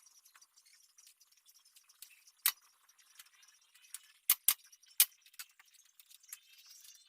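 Four sharp knocks of hard objects: one about two and a half seconds in, then three close together a couple of seconds later, over faint small ticks and clinks.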